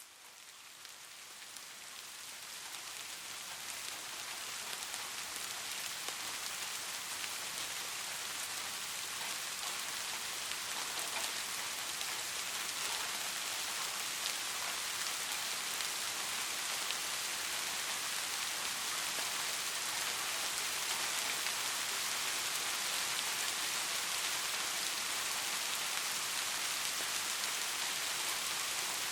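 Steady rainfall, a dense even patter of raindrops, fading in over the first few seconds and then holding constant.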